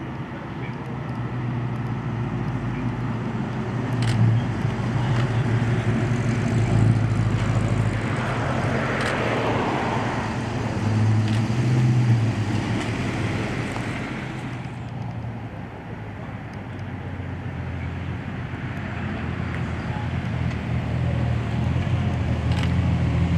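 Car engines running, a low drone that grows louder and quieter several times, loudest around the middle and again near the end.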